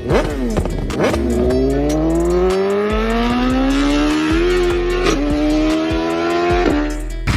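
Liter-class sport motorcycle engine revving briefly, then accelerating hard with its pitch rising steadily, dipping at upshifts in the second half; the sound cuts off suddenly near the end.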